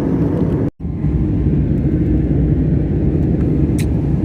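Airliner cabin noise: a steady low rumble of engines and airflow, broken by a brief dropout about three-quarters of a second in.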